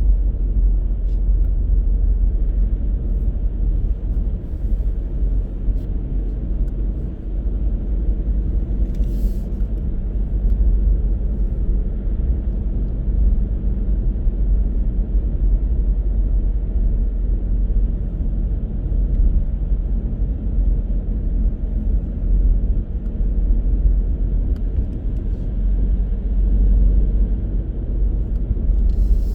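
Car driving at steady speed: a constant low rumble of road and engine noise, with no clear changes in pitch.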